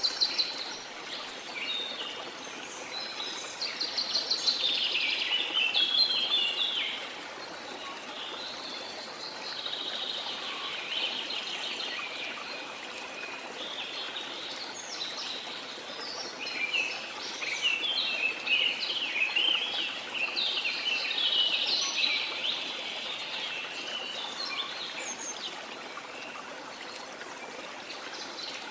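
Birds calling with rapid chirps and trills over the steady rush of falling water, the birdsong thickest in two spells, a few seconds in and again after the middle.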